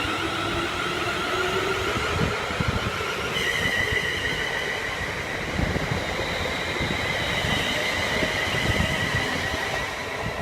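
A non-stopping train passing through the station at speed: steady rumble of wheels on rail with repeated knocks, and a high steady whine that sets in about three seconds in.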